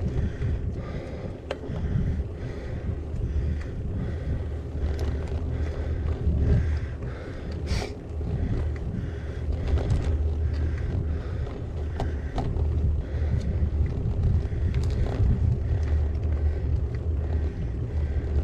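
Wind buffeting an action camera's microphone while riding a bicycle, with a heavy uneven rumble and, several times, sharp clicks or knocks from the bike over the road.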